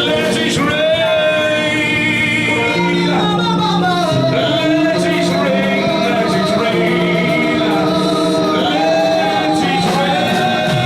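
Worship music: a man singing long, wavering held notes over steady instrumental accompaniment.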